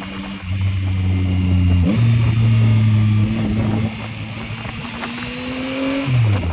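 Yamaha MT-09's inline three-cylinder engine under way. Its note jumps about two seconds in, climbs slowly as the bike gathers speed, and falls sharply near the end as the throttle closes. Wind and road noise run underneath.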